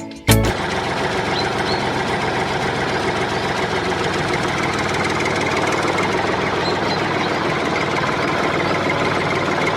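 Small engine of a homemade mini tractor running steadily at an even speed.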